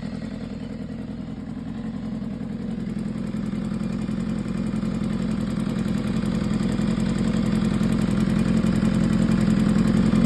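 2015 BMW S1000RR's inline-four engine idling steadily with a ticking from the top end, growing gradually louder.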